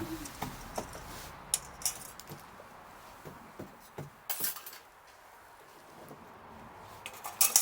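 Scattered sharp clicks and clinks of small hard objects being handled, irregular, the loudest cluster near the end.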